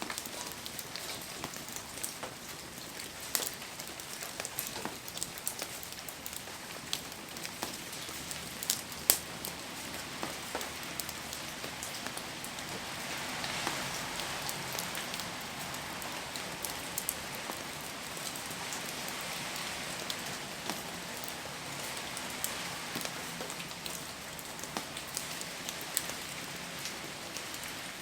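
Heavy rain falling steadily, with many scattered sharp ticks and pops throughout. The rain swells a little about halfway through.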